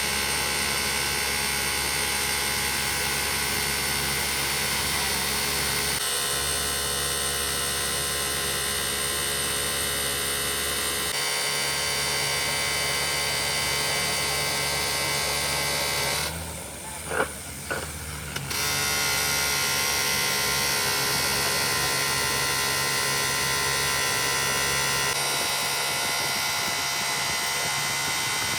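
Workshop machinery running with a steady electric hum, its tone shifting a few times. About two-thirds through, the hum briefly dips and a couple of sharp knocks sound before it resumes.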